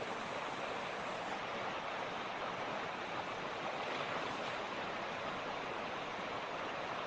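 Mountain creek flowing over rocks: a steady, even rush of water.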